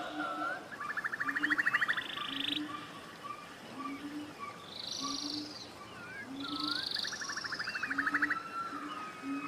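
Forest birds calling: fast rattling trills and short sliding whistles, over a low short call, likely a frog, that repeats roughly once a second.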